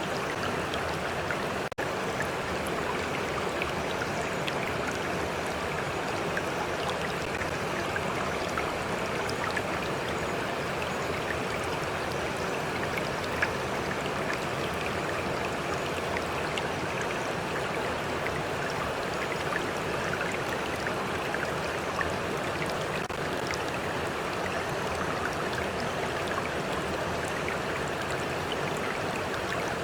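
A stream of water flowing steadily, a continuous rushing with small splashes and trickles. There is a momentary dropout about two seconds in.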